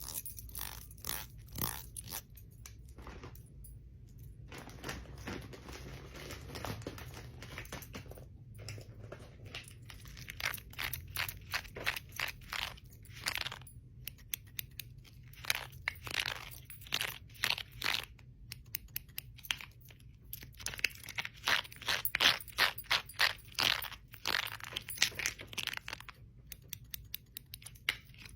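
Bangles and rings clicking and clinking together in quick runs of taps, busier and louder in the second half.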